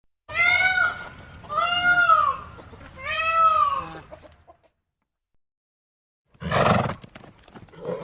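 An animal calling three times, each drawn-out call rising and then falling in pitch, about a second apart. After a pause, a short harsh burst comes near the end.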